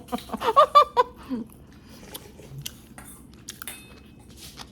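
A person eating chicken soup and rice: chewing, with scattered light clicks of a spoon or chopsticks against a bowl. A brief stretch of voice fills the first second and a half.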